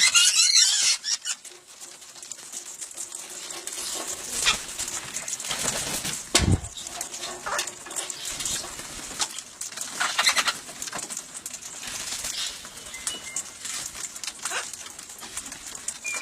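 Parrots at a hand-feeding, with wing flaps and soft bird calls among scattered light clicks. A single low thump comes about six and a half seconds in.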